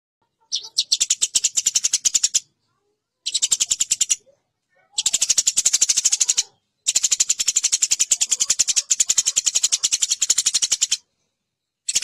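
Eurasian tree sparrows (burung gereja) fighting: harsh, rapid chattering of many quick notes in a row. It comes in bursts of one to four seconds broken by short silences.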